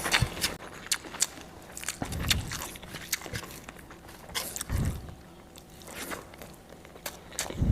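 A person eating close to the microphone: chewing and biting, with scattered short crunches and clicks and a couple of heavier mouthfuls about two and five seconds in.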